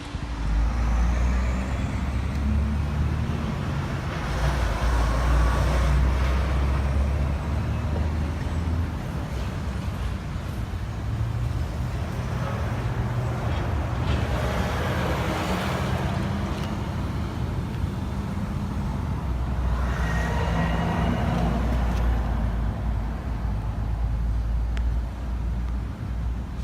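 Cummins 4BT 3.9L four-cylinder turbo diesel running on a test run, its pitch shifting up and down a few times.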